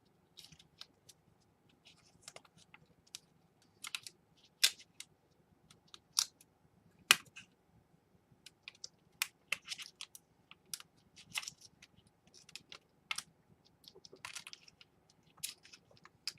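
Scattered, irregular clicks and taps at the Dell Inspiron 11 laptop's replacement keyboard as it is worked on, a few sharp ones louder than the rest.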